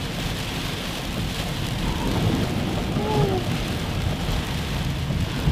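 Heavy rain beating steadily on a moving car, heard from inside the cabin over a low rumble of road and engine.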